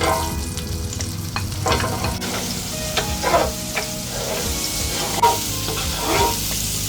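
Food frying in hot oil in a pan, a steady sizzle, with a cooking utensil stirring and scraping in the pan.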